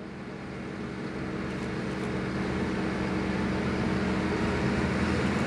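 Heavy diesel bulldozer engines running under load, a steady drone that swells over the first couple of seconds and then holds.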